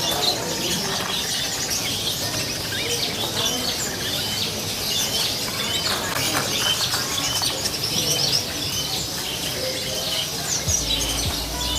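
Many caged songbirds chirping and trilling at once, a dense overlapping chorus of short high calls. A low steady hum comes in near the end.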